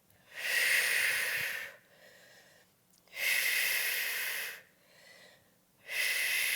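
Long, forceful breaths out through the mouth, three of them about three seconds apart, with faint breaths in between. This is exercise breathing paced to bird dog reps: an exhale as the arm and opposite leg extend.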